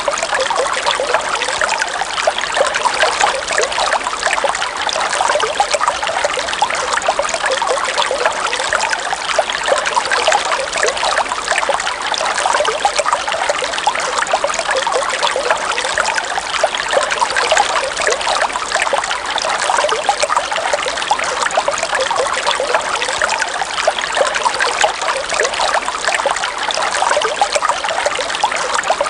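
River water running and trickling, a steady, even babble of many small splashes with no change.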